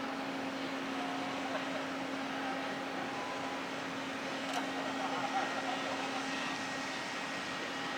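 Steady machinery hum with a constant low tone, over a faint even rush, and a brief click about halfway through.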